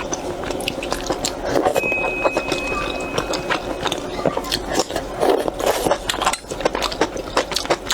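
Close-miked eating of noodle soup: chewing and slurping snail noodles, with many small sharp clicks and a brief hissing slurp about six seconds in.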